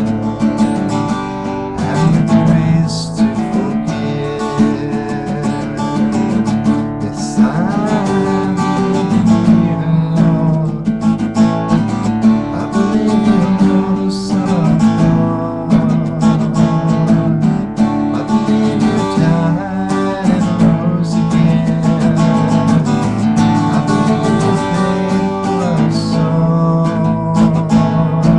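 Music: an acoustic guitar strummed steadily through sustained chords.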